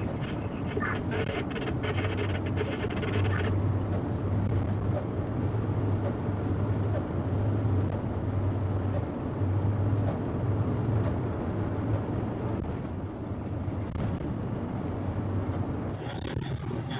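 Diesel engine of a Scania coal-haul truck running steadily under way, a low drone with a slight rise and fall, with a crackly hiss over it for the first three seconds or so.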